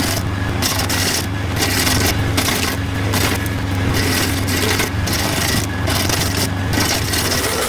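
Tractor-driven PTO stump grinder chewing into a stump, with a steady low engine hum under a rough, uneven grinding and chipping noise as the carbide-toothed wheel bites into the wood.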